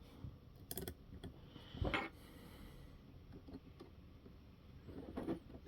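A few faint clicks and taps of small screws and RC parts being handled and fitted by hand, the loudest a dull knock about two seconds in.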